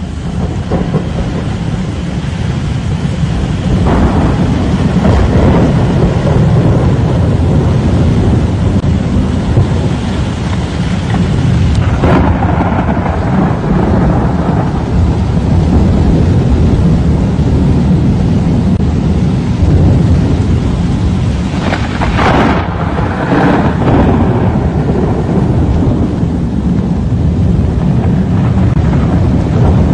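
Thunderstorm: a continuous loud rush of rain and wind with deep rumbling, swelling several times, most strongly about 12 and 22 seconds in.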